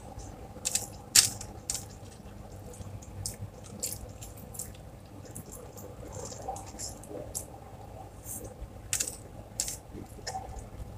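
Close-up eating sounds from a person eating rice and fish by hand: chewing with frequent short, irregular wet mouth clicks and smacks, the loudest about a second in.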